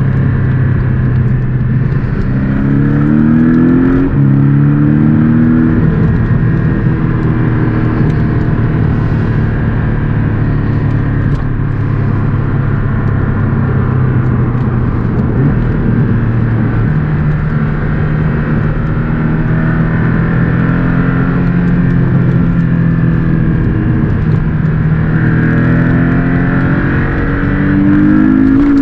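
Porsche 718 Boxster S's turbocharged flat-four engine under way. The engine note climbs through two quick rises with a shift between them a few seconds in, holds fairly steady for a long stretch, then climbs again near the end.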